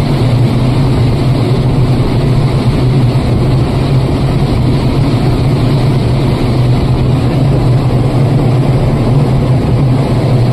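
EC (electronically commutated) fan running with a steady deep hum over a rushing of air: the abnormal noise of a fan with a sound problem.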